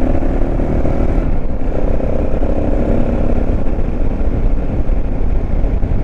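Motorcycle engine running steadily while riding at road speed, heard under loud, steady wind rush on the rider's microphone.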